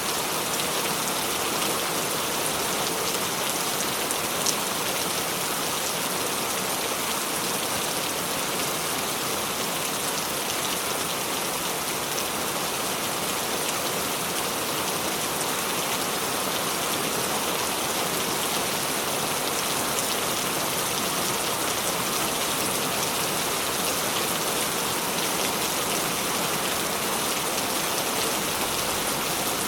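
Steady rain falling, an even hiss, with one sharper drop tick about four and a half seconds in.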